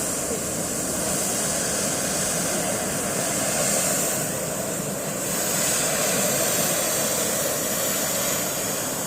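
Hand-held tezutsu tube fireworks spraying sparks: a steady, jet-like rushing hiss that swells and eases a little.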